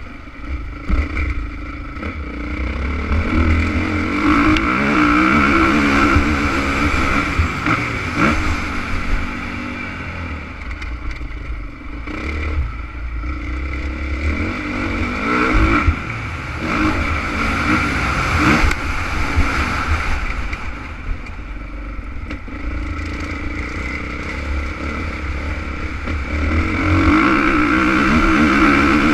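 Honda CRF450 motocross bike's four-stroke single-cylinder engine revving up and down repeatedly as it is ridden, with the pitch climbing and dropping through the gears and throttle changes.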